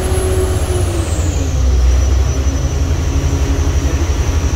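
Boat engine running with a deep pulsing rumble; about a second in, its pitch drops and then holds steady.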